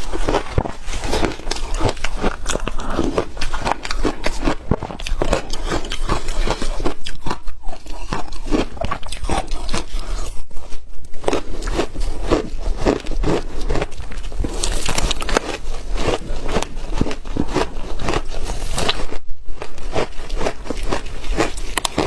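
Ice with passion fruit being bitten and chewed: a continuous run of loud, sharp crunches and cracks, with short pauses about seven, ten and nineteen seconds in.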